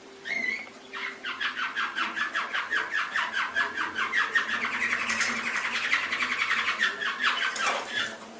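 Canary singing: a short call, then from about a second in a long rapid trill of repeated notes, ending near the end with a falling note.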